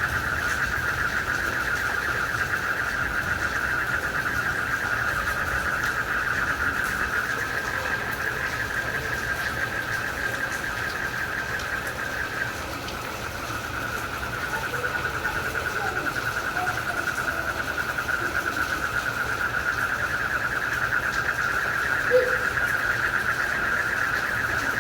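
Night chorus of crickets and frogs: a steady, rapidly pulsing trill that carries on without a break and softens briefly about halfway through, over a low steady rumble.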